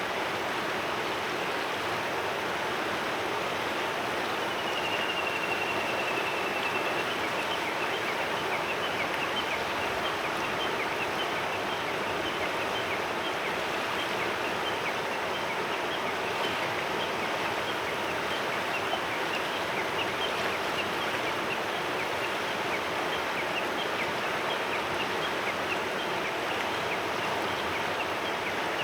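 Clear mountain river flowing steadily over stones. A single drawn-out high bird whistle comes about five seconds in, with faint, short high chirps after it.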